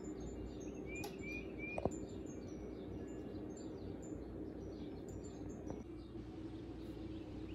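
Small birds chirping and twittering, with three quick rising chirps about a second in, over a steady low hum. A single sharp click just before the two-second mark is the loudest moment.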